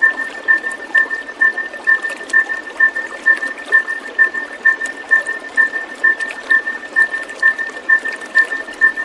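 A short high call repeating evenly about twice a second over a steady rush like running water, as in an ambient therapy track for training caged songbirds.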